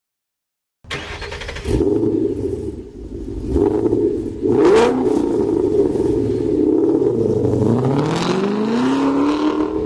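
A car engine revving, starting about a second in, with sharp hits near two and five seconds in. Near the end the engine's pitch dips, then climbs steadily as it revs up.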